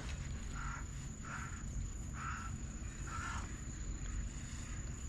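Insects calling: a steady high trill with a soft chirp repeating about once a second, over a low rumble.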